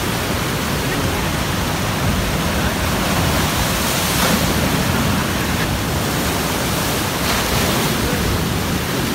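Ocean surf making a steady rushing noise, swelling slightly about four and seven and a half seconds in.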